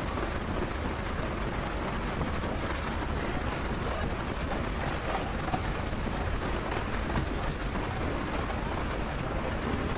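Steady running noise of a small-gauge passenger train heard from aboard: an even rumble and rush with no distinct knocks or whistles.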